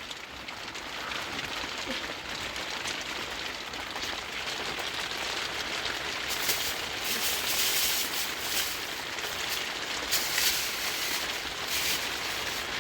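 Steady rain falling, with louder surges of hiss in the second half.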